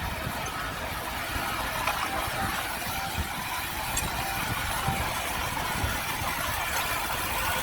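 Diesel engine of earthmoving equipment running steadily, with faint squeals and light knocks like steel tracks and linkage working.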